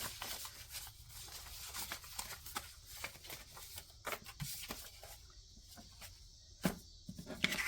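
Paper banknotes and envelopes being handled: scattered soft rustles and light taps.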